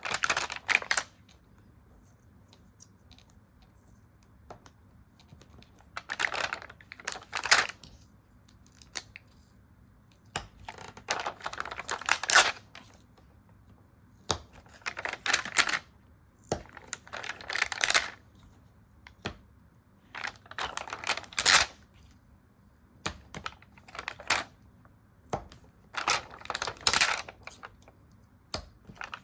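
Stickers and paper being handled for a sticker journal: short rustling, crackling bursts of peeling and pressing, coming in clusters every few seconds with quiet pauses between.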